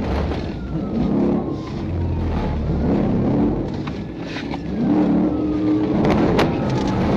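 Car engine accelerating hard, its pitch climbing several times as it revs up through the gears, with a sharp knock about six seconds in.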